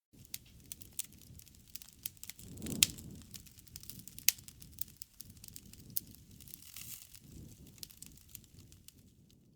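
Campfire wood burning, with irregular crackles and sharp pops over the low rumble of the flames. A louder swell ends in a sharp pop about three seconds in.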